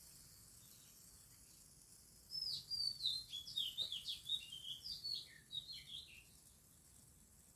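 Small birds chirping: a quick, busy run of short high chirps begins about two seconds in and fades out a few seconds later.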